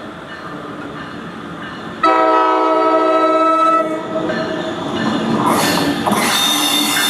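NJ Transit commuter train's air horn blowing one long chord of about two seconds as the train approaches. The horn is followed by rising noise of the train rolling in on the rails.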